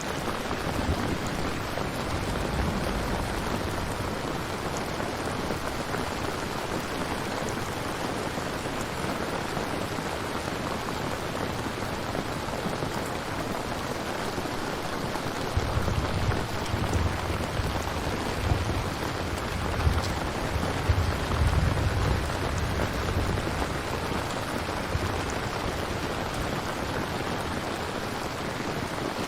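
Steady rain falling, an even hiss of many drops, with a low rumble that swells in about halfway through and lasts several seconds before fading.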